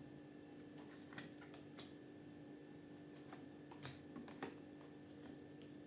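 Faint, scattered clicks and taps of tarot cards being handled, about eight light ticks over a few seconds, above a low steady room hum.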